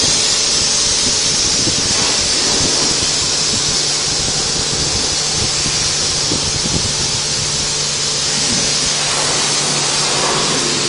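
Car wash water spray hissing steadily over a low, steady hum.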